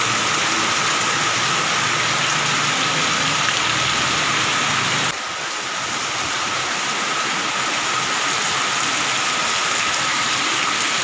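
Heavy rain pouring down steadily, a dense even hiss; it dips slightly about five seconds in and then builds back.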